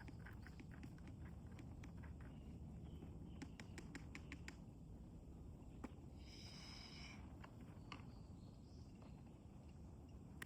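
Quiet wood campfire with faint scattered crackles, thickest in the first half, over a low steady rumble; a short high-pitched call sounds about six seconds in.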